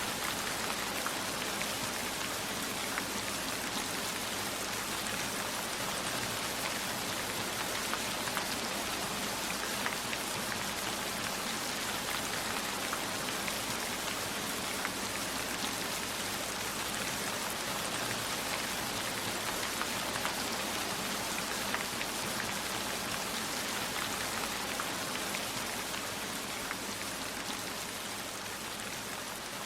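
Steady heavy rain falling, with scattered drops tapping through it; it eases slightly in loudness near the end.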